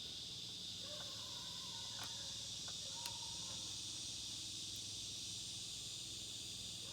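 Insects chirring steadily at a high pitch, with a few faint clicks and thin tones from about a second in.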